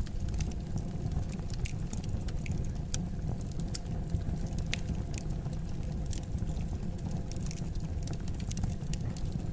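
Wood fire in a fireplace crackling, with many small sharp pops scattered irregularly over a steady low rumble.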